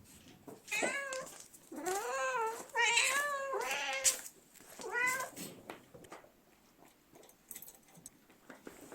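A domestic cat meowing four times in the first five seconds: a short call, then two long, drawn-out ones, then a short one. After that there are only faint small clicks.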